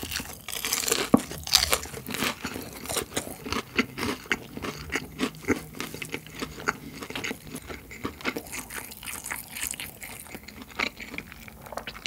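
Close-miked crunching and chewing of crispy fried chicken, a dense irregular run of crunches through the whole stretch.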